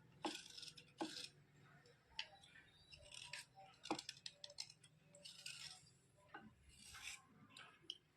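Faint scraping and crunching of crushed white slate pencil: short scratchy strokes with sharp cracks, the loudest about one second and four seconds in.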